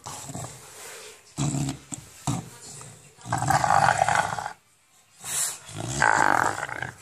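English bulldog play-growling with loud, roar-like vocalisations in bursts. There are a few short grunts early on, then one long growl about three seconds in and another near the end.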